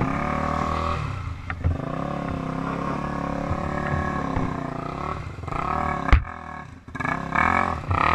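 Off-road motor vehicle engine running under throttle, its pitch rising and falling as it revs and eases off. About six seconds in there is a sharp knock, the engine drops away briefly, then revs up again near the end.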